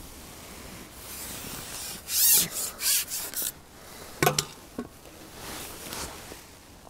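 Rubbing and scraping of fishing tackle being handled, with a few short loud scrapes about two to three and a half seconds in and a sharp knock a little after four seconds.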